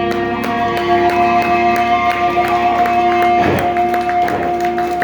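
Live band music: electric guitars hold long ringing notes over steady playing.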